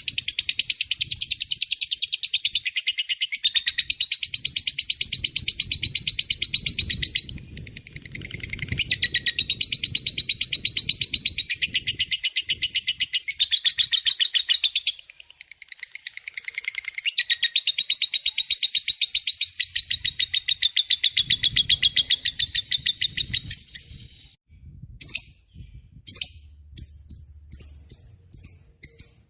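Lovebird singing a long ngekek: a fast, unbroken chattering trill of rapid high notes. It pauses briefly twice, stops about 24 seconds in, and gives way to a few separate sharp chirps.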